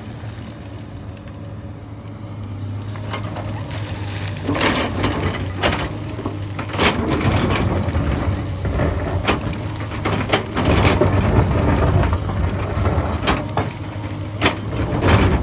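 Hyundai excavator's diesel engine running under load, with repeated cracks and crunches of rock and soil being dug and dropped. It grows louder and busier from a few seconds in.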